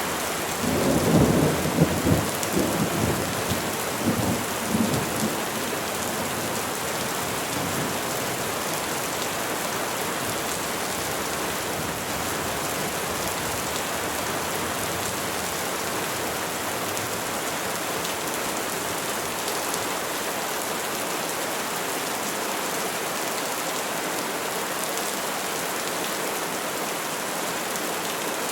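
Steady rain falling on trees, with a roll of thunder rumbling through the first five seconds or so and then dying away.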